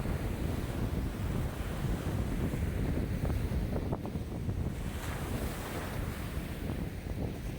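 High lake waves churned up by a strong wind of about 5 m/s, washing and splashing steadily, with the wind rumbling on the microphone. A few small splashes stand out about three seconds in.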